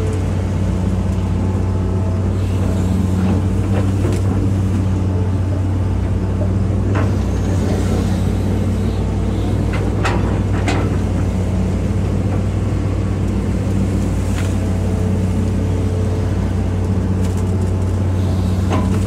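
Hitachi EX200-5 excavator's diesel engine running steadily while it works, with a few brief knocks around the middle.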